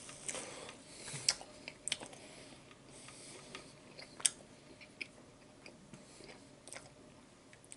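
Chewing a mouthful of chicken club sandwich: scattered wet mouth clicks and smacks, the sharpest about a second in and about four seconds in.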